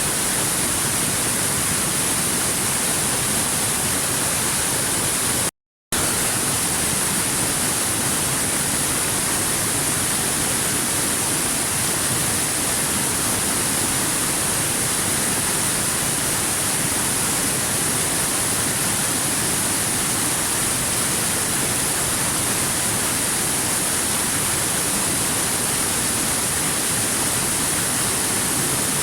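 Waterfall: a steady, even rush of falling water with no change in it, broken once about six seconds in by a brief complete drop-out to silence before it resumes unchanged.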